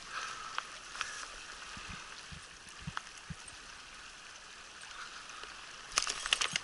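River water flowing steadily, with a few faint knocks in the middle and a cluster of sharp clicks near the end.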